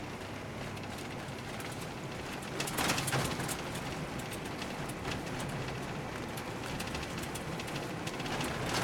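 Car driving on a snowy gravel road, heard from inside the cabin: steady engine hum and tyre noise with a light crackle of gravel under the tyres. The noise swells briefly about three seconds in and again near the end.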